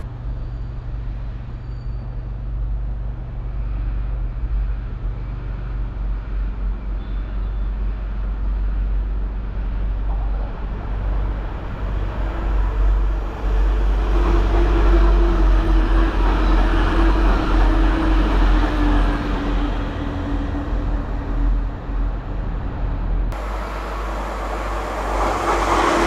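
A train approaching and running past, its rumble and rail noise building about halfway through to a loud stretch with a steady pitched note, then an abrupt jump to a louder passage near the end.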